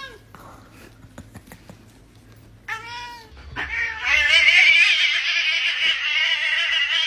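Domestic cat meowing: one short meow about three seconds in, then a long, loud, wavering yowl.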